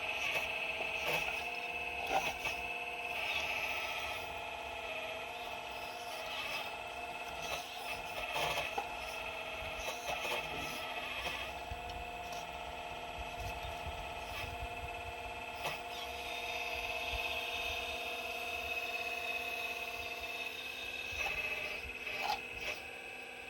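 Excavator hydraulics whining steadily while digging rock, with scattered scrapes and knocks of the bucket against stone.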